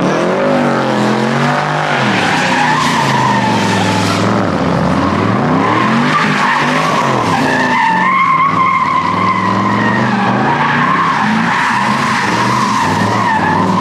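A car doing a burnout: the engine revs up and down repeatedly while the rear tyres spin and squeal on the pavement.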